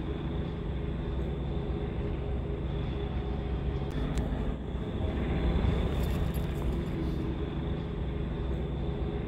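Approaching train's locomotive engine, a steady low rumble that swells slightly about six seconds in.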